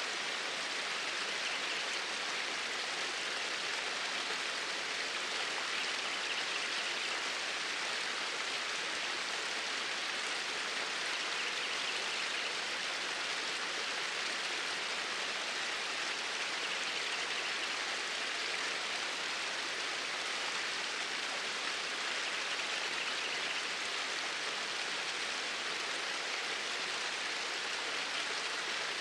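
Water flowing in a stream, a steady, even rush.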